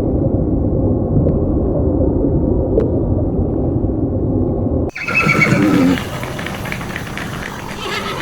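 Horse sounds: about five seconds of dense, low, noisy sound, then an abrupt change to a horse neighing, a short pitched call lasting about a second.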